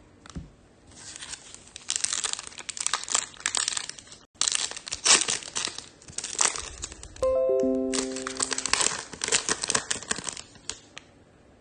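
Foil trading-card pack wrapper being torn open and crinkled in the hands, in dense crackling spells. About seven seconds in, a short run of chime-like tones steps downward.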